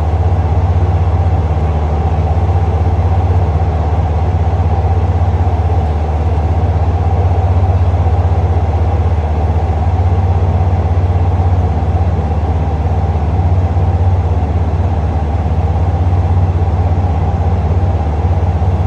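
Diesel train engine idling with a steady, unchanging low hum.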